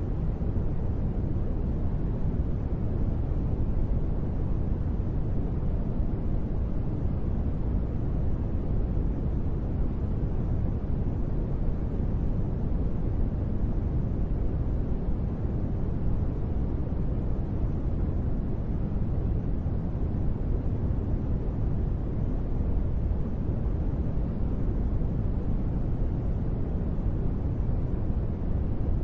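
Steady, deep, rushing rain-like noise with most of its weight in the low end. It is an unbroken wash, with no separate drops, thunder or changes.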